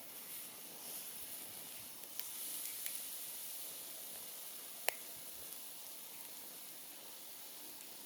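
Wood campfire burning with a steady soft hiss and a few small crackles, and one sharp pop just under five seconds in.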